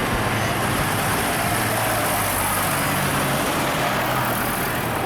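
Tractor engines running steadily, a low engine hum with a wash of mechanical noise.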